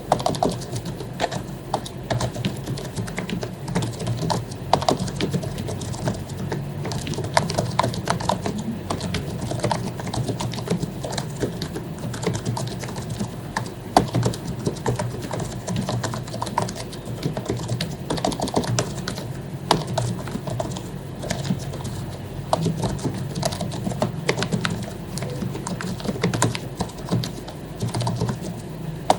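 Continuous, irregular typing on an HP membrane keyboard whose keycaps have been lubricated: dense soft key presses with no pauses.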